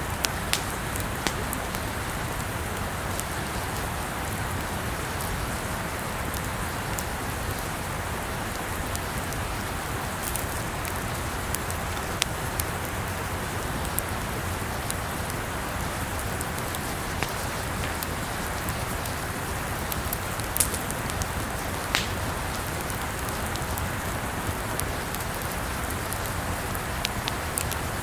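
Campfire burning: a steady hiss of burning wood with scattered sharp crackles and pops every second or two.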